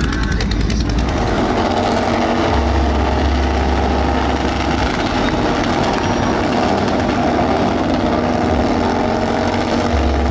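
Motorcycle engines running steadily, a loud continuous engine drone with a low rumble that swells and drops a few times.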